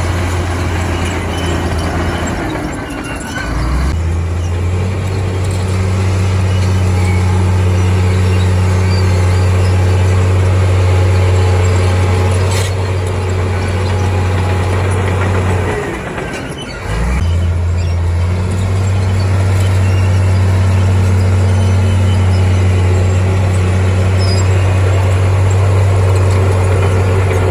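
Heavy diesel engine of earthmoving machinery running with a steady deep hum. The engine note dips briefly about three seconds in and again around sixteen seconds in, then picks back up.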